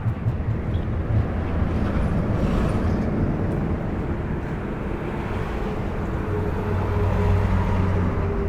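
Motor vehicle running: a steady low engine hum with road noise, swelling slightly about seven seconds in.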